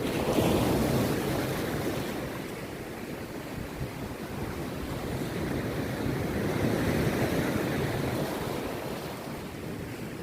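Rough sea surf breaking on a beach: a steady wash of waves that swells as a breaker crashes about half a second in and again around seven seconds in. Wind buffets the microphone.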